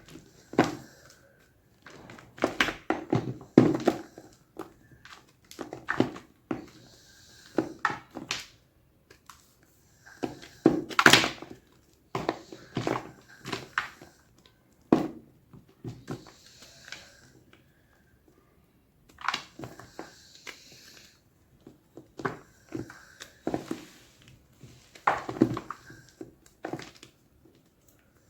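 Gym chalk crunching in irregular bursts of crackling crunches, every second or two, with a short pause about two-thirds of the way in.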